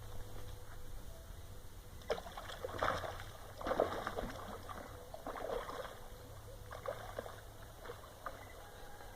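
Matrinxã fish splashing at the water surface as they snap at guavas: a series of about six short splashes, roughly a second apart, over a steady low hum.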